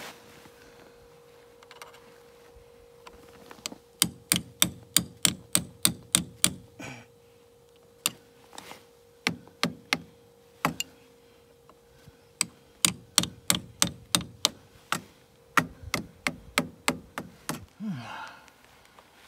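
Hammer knocking pins through, in quick runs of sharp strikes at about three a second with short pauses between runs. A faint steady hum sits underneath and stops near the end.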